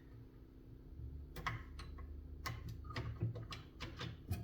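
Light, irregular clicks and taps of metal drill bits being handled and picked out of a set, one after another, starting about a second in.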